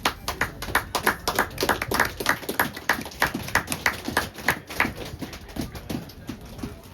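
Hand clapping close to the microphone: a steady run of claps, about three a second, trailing off near the end.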